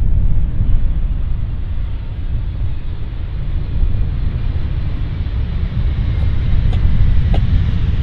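Boeing 777 jet airliner's engines on landing: a deep, steady rumble, with a few faint clicks near the end.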